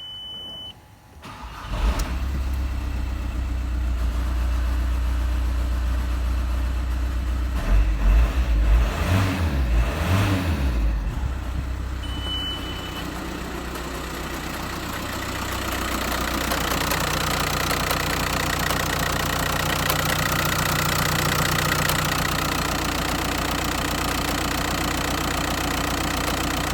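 VW Sharan's 1.9 TDI (ASZ) four-cylinder turbodiesel starting about two seconds in and then idling, with a few short throttle blips around eight to eleven seconds in. A short electronic beep sounds about twelve seconds in.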